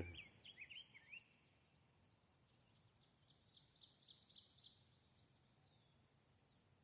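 Faint birdsong in near silence: a few short chirps in the first second, then a quick flurry of higher chirps about three to five seconds in.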